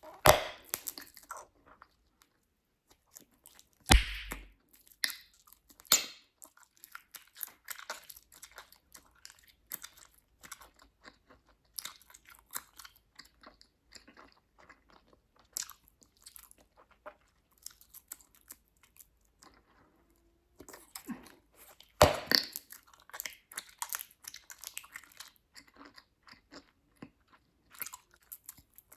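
Bubblegum being chewed close up, with many small snapping clicks and four loud, sharp pops spread through.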